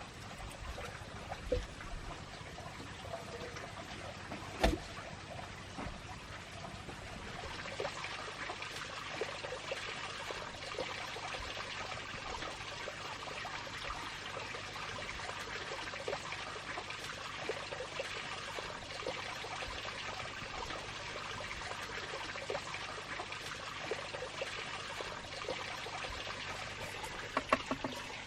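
Water trickling and splashing steadily, growing louder about seven seconds in, with a single sharp knock about four and a half seconds in.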